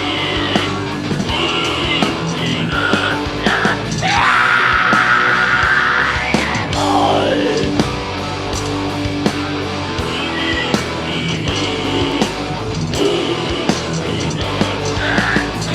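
Heavy metal band playing live: distorted electric guitars over fast, dense drumming. A high held note slides up about four seconds in and slides back down a couple of seconds later.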